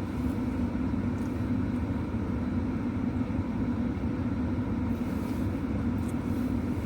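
Car engine idling steadily, a low even hum heard from inside the parked car's cabin.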